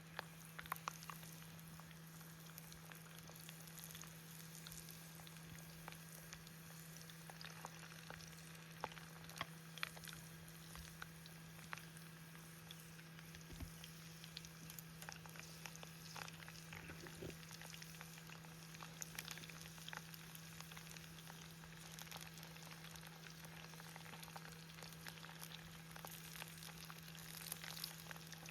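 Food frying in a pan, a faint steady sizzle with scattered small crackles, over a low steady hum.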